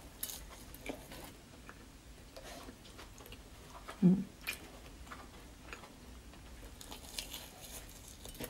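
Close-up mouth sounds of biting and chewing fried food, with short scattered crunches. A brief low hum about four seconds in is the loudest moment.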